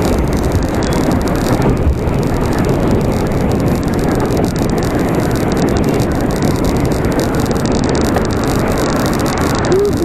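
Steady, loud rushing road noise: wind buffeting the microphone mixed with passing traffic, heard while riding. A brief squeak near the end.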